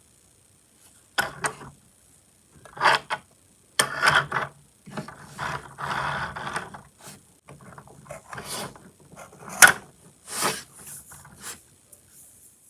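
Irregular clicks, rattles and knocks of small hard objects being handled, in short bursts over several seconds.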